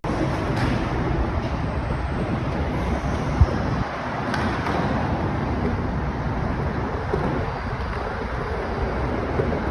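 Steady road traffic noise, with one sharp knock about three and a half seconds in.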